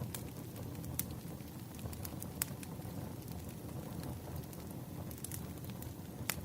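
Wood fire burning: a steady low rumble of flames with irregular sharp crackles and pops from the firewood, a few louder snaps among them.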